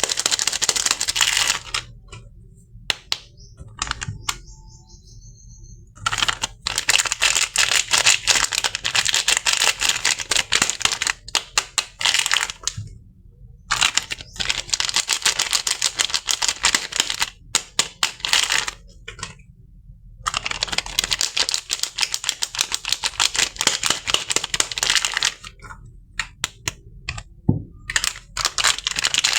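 Crisp, dense crackling and clicking from soap unboxing handling, in stretches of a few seconds broken by quieter pauses with only scattered clicks.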